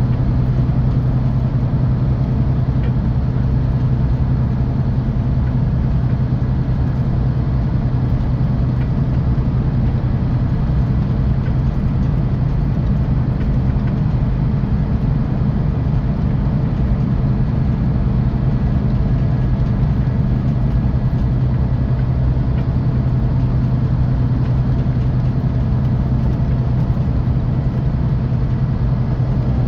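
Scania K450 coach's six-cylinder diesel engine and road noise heard from inside the bus, a steady low drone that holds one pitch throughout.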